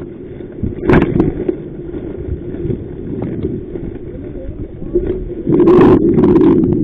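Strong wind rumbling on the microphone in an open inflatable boat, with a sharp knock about a second in; the noise becomes much louder and harsher about five and a half seconds in as a gust hits.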